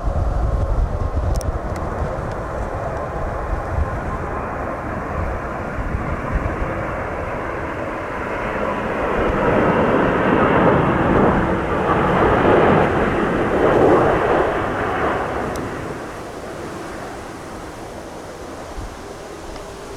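Jet airliner on landing approach in strong wind: its engine noise swells, peaks a little past the middle and fades away. Gusty wind rumbles on the microphone throughout.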